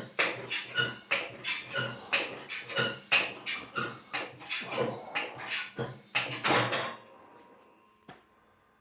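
Repeated metallic squeaks from a mechanism being worked stroke after stroke, about two a second, each with a short ringing edge; they stop about seven seconds in.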